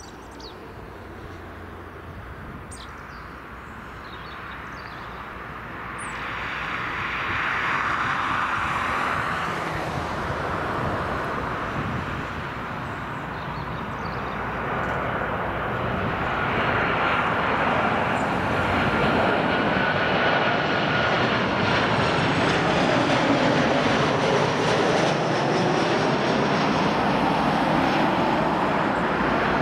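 Boeing 737-800 jet engines (CFM56-7B turbofans) on a landing pass, growing louder over the first ten seconds and then staying loud, with a faint steady whine over the jet noise in the second half.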